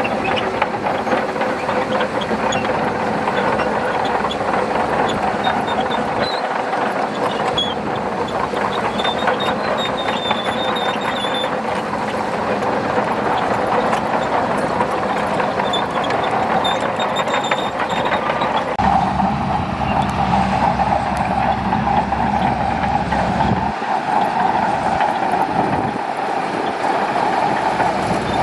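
Shantui bulldozer's diesel engine running under load while its steel tracks clatter. About two-thirds of the way in a deeper rumble comes in and the engine note rises.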